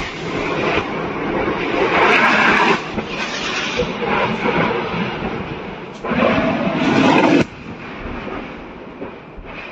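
Ammunition cooking off in a burning depot: a continuous rumbling crackle of small blasts, surging loudly about two seconds in and again around six seconds in, the second surge cutting off abruptly.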